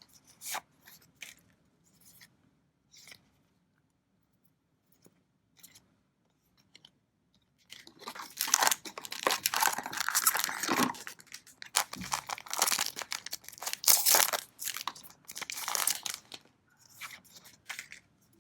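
Trading-card booster pack wrapper being torn open and crinkled by hand: a few light handling clicks at first, then a long run of tearing and crinkling through the second half.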